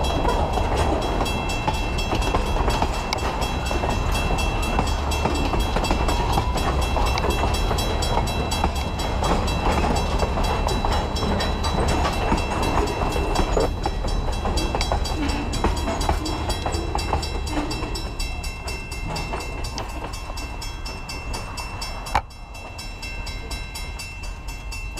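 Freight train of covered hoppers and tank cars rolling past at close range: a steady rumble and grinding of steel wheels on the rails. About 22 seconds in, a sharp click, and the rolling noise continues quieter.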